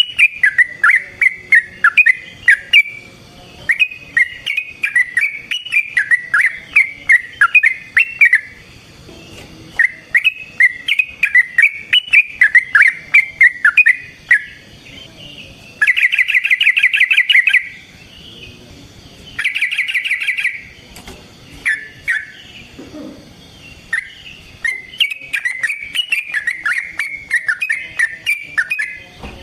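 Yellow-vented bulbul singing: loud, rapid, bubbly chattering phrases with short pauses, and two fast rattling trills a little past halfway.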